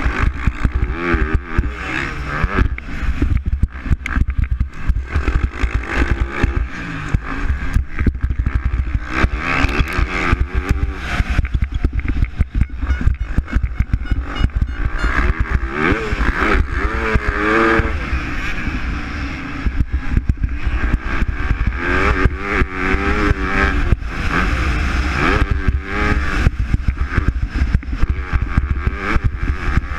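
MX2-class motocross bikes racing, their engines revving up and down as they accelerate and shift, with a constant rumble and clatter.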